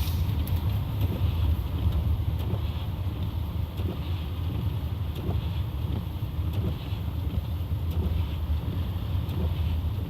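Steady low rumble of a four-wheel-drive vehicle's engine and tyres heard from inside the cabin while driving on a snow-covered road. A faint swish repeats about every second and a half.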